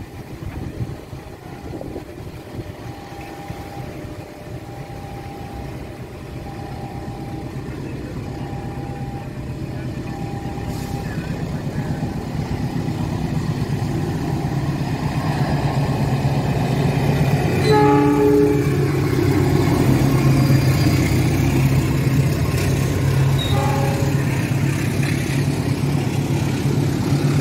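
A passenger train approaching and running past close by, its rumble building steadily to a loud pass. The locomotive's horn gives one short blast about two-thirds of the way through and a briefer toot a few seconds later.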